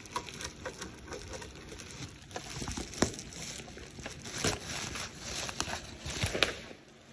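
Irregular clicks, taps and rustling from things being handled by hand, with several sharper knocks around the middle.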